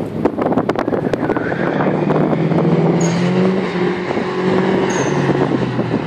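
Car engines running hard on a distant competition course, with a fairly steady engine note that wavers slightly. Wind buffets the microphone in the first second or so.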